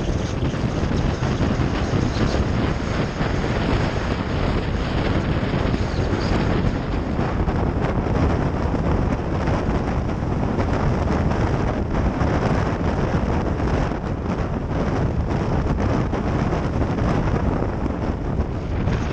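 Wind rushing over the microphone of a moving motorbike, a steady dense roar strongest in the low range, with the bike's running and road noise under it.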